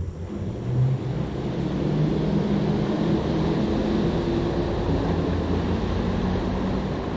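An engine running steadily with a low hum, growing louder over the first couple of seconds and then holding even.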